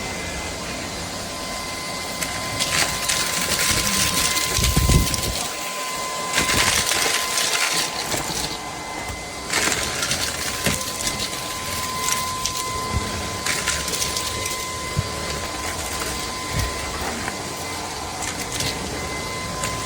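CAMIY cordless stick vacuum running with a steady high-pitched whine, broken by irregular bursts of rattling, crackling noise as it sucks up debris.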